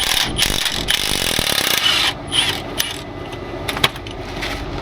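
A rasping, grinding tool sound for about two seconds, then a few sharp metallic clicks: bolts being worked out of a truck's driveshaft joint. A diesel engine idles underneath.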